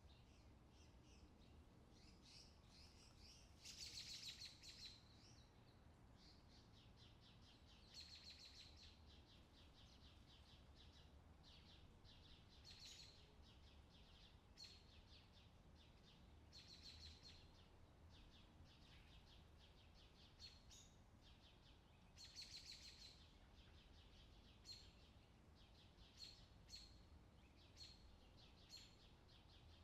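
Faint outdoor summer ambience of birds chirping, in short trilling bursts every few seconds and then single short chirps near the end, over a low steady background rumble.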